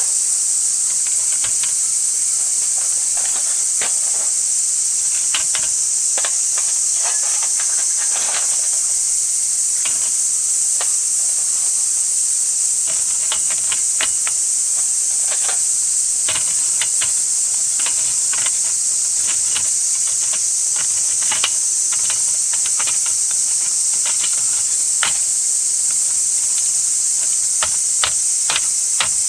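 Chorus of cicadas making a steady, loud high-pitched drone, with scattered irregular crackles over it.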